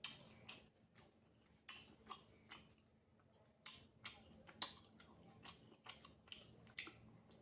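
Faint mouth sounds of a person eating egg fry and white rice: irregular wet clicks and smacks while chewing, with a sharper click about halfway through.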